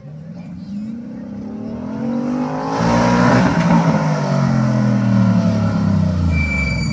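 A rally car driving past at speed. Its engine note climbs in pitch as it approaches, is loudest about three seconds in, then drops in pitch as it goes by and away.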